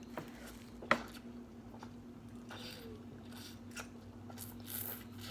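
Someone chewing food softly while eating, with a few sharp clicks, the loudest about a second in, over a faint steady hum.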